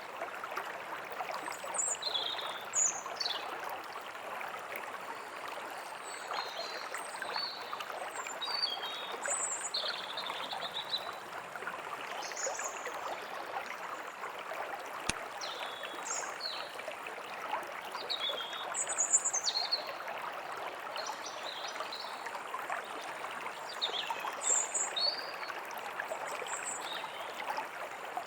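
A small stream flowing and trickling steadily, with songbirds chirping in short, high calls scattered over it throughout. There is a single sharp click about halfway through.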